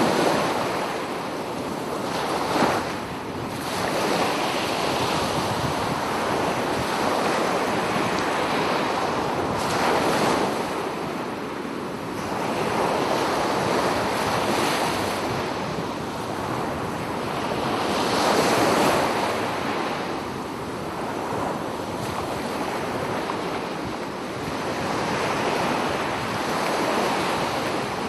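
Sea waves breaking and washing ashore, a steady rush of surf that swells and fades every few seconds.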